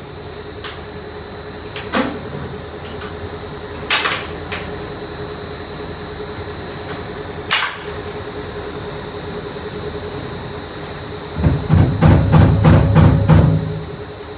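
Factory machinery running with a steady high whine and hum, broken by a few short sharp hisses. Near the end it gives way to a loud, rapid clatter of metallic knocks, about four or five a second, for a couple of seconds.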